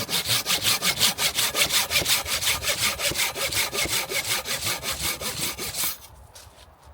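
Hand saw cutting through wood in rapid, even back-and-forth strokes, stopping suddenly about six seconds in.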